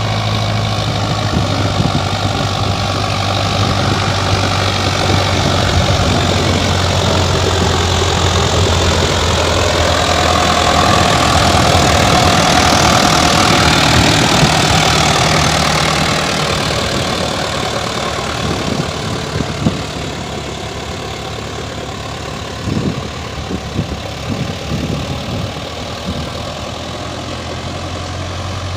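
Diesel farm tractor engine working under a full load uphill. The engine note grows louder toward the middle and then fades, with a few sharp knocks near the end.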